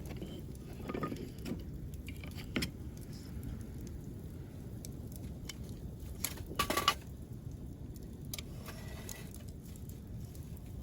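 Wood campfire crackling, with scattered sharp pops and a louder quick cluster of snaps a little past halfway.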